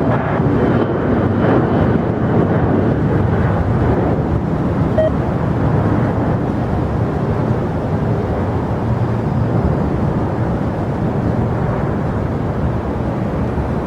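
Jet airliner engine noise: a loud, steady roar that eases slightly near the end.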